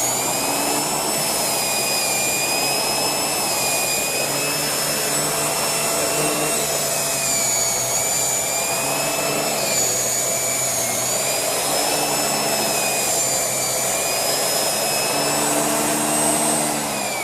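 Shark Rotator Lift-Away Speed upright vacuum running steadily with its air-driven mini turbo brush attached. A high whine in the sound wavers up and down in pitch as the brush is worked over upholstery and carpet.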